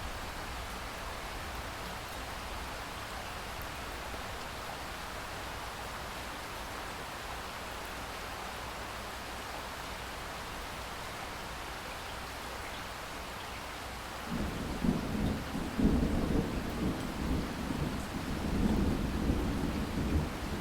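Steady rain falling in a rainstorm, an even hiss. About two-thirds of the way in, a low rolling rumble of thunder starts and swells unevenly over the rain.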